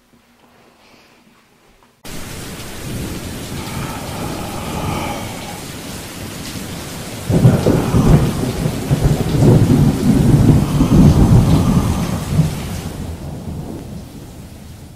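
Rain with rolling thunder that cuts in abruptly after two seconds of quiet, then a loud low rumble of thunder about seven seconds in that dies away near the end.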